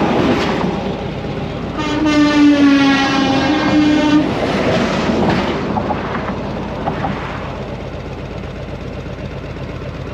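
A long, loud horn blast about two seconds in that lasts about two seconds and drops slightly in pitch as it ends, over a steady rushing noise of wind and road.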